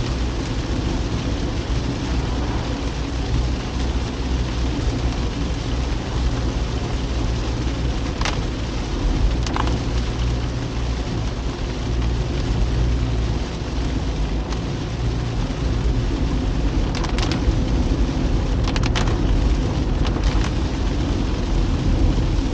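Car driving in heavy rain: a steady low engine and road rumble under an even hiss of rain, with a few brief sharp knocks in the middle and later on.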